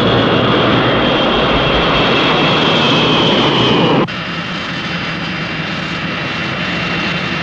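Jet aircraft engines running loud with a high whine over the noise. About four seconds in the sound drops suddenly to a quieter, steady engine noise that keeps a thin whine.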